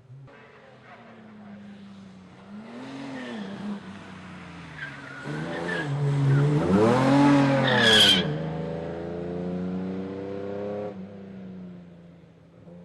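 Classic racing car's engine revved up and down twice, louder the second time, then a short tyre squeal about eight seconds in as it pulls away. The engine holds a steadier note for a few seconds, then drops away.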